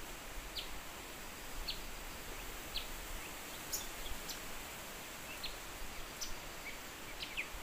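Short, high bird chirps, roughly one a second, over a steady background hiss.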